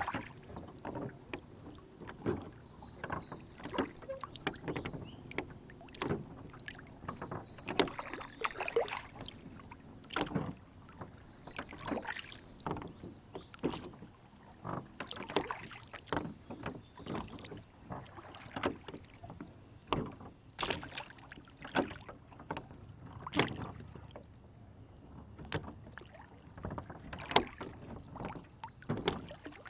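Water lapping and slapping against a small rowboat on a lake, with many irregular small knocks and splashes against the hull.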